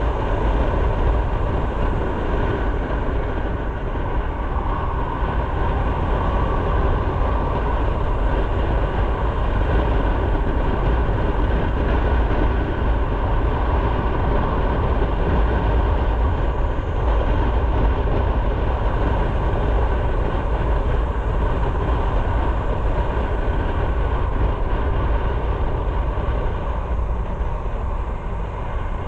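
Motorcycle riding at a steady speed: engine and wind noise on the microphone as one loud, even rumble, dipping slightly near the end.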